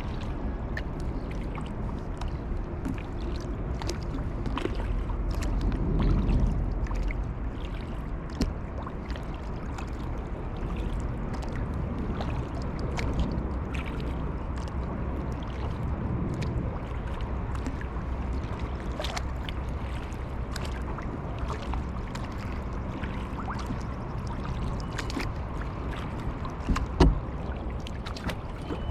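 Kayak paddling on a calm lake: paddle blades dipping and pulling through the water with small splashes and drips, over a low rumble of wind on the microphone. A sharp knock sounds near the end.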